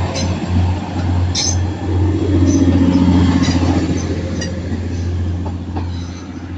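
Train at a station platform: a loud, steady low drone, with a stronger engine note from about two to four seconds in and scattered sharp metallic clicks.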